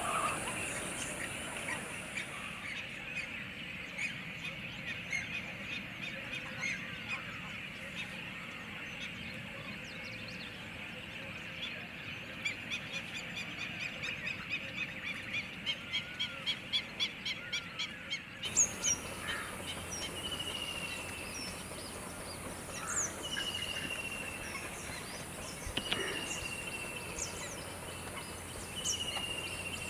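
Water birds calling: a fast run of calls that grows louder, then, after an abrupt change in the sound, repeated short falling whistles with higher chirps above them.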